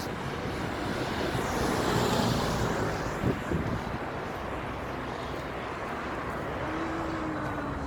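Outdoor traffic noise: a vehicle passing by, swelling to its loudest about two seconds in and then fading.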